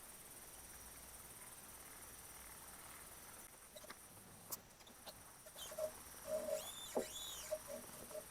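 Faint steady high trilling of night insects, with a few light clicks and, about six to seven and a half seconds in, a short run of faint chirping calls from a small animal: two or three high chirps that rise and fall, among short low blips.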